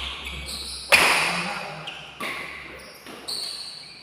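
Badminton rally: rackets striking the shuttlecock three times about a second apart, each hit a sharp crack ringing out in a large hall, the first the loudest. Short high squeaks of court shoes sound between the hits.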